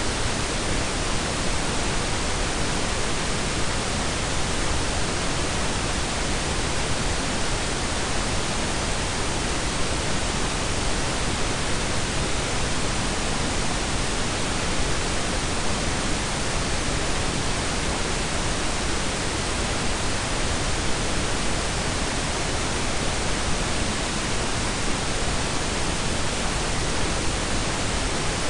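Steady, unchanging blend of pink and brown noise: an even hiss with no breaks or events.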